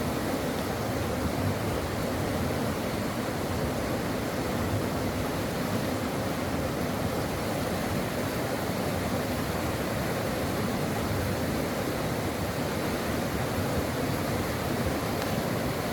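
Stream water running steadily over rocks: an even, continuous rushing and babbling.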